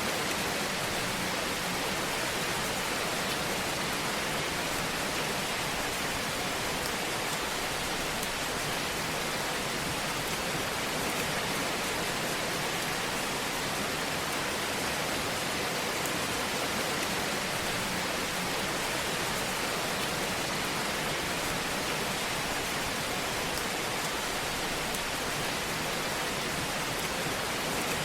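Fireplace ambience: a steady, even hiss of burning fire, with no distinct pops or crackles standing out.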